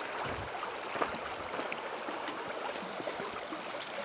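Creek water running steadily, with a few small clicks and a brief low rumble about half a second in.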